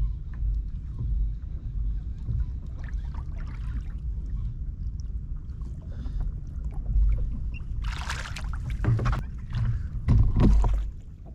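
Sounds of a kayak on the sea: a steady, uneven low rumble with scattered water noise. A short, loud splash-like hiss comes about eight seconds in, and another rough burst follows a little after ten seconds.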